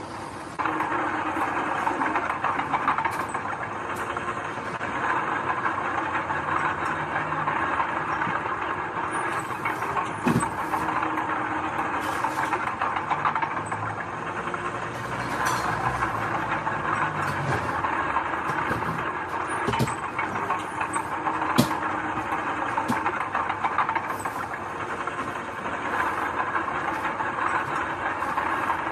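Heavy earthmoving machinery running steadily, with scattered sharp clanks and knocks; the sound begins abruptly just after the start.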